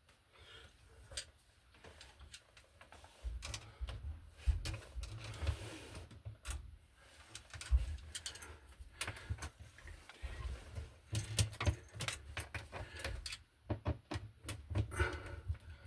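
Irregular clicks, light rattles and small knocks of hand tools and small metal hardware being handled, with low thuds of handling, while a cable strap is being fitted.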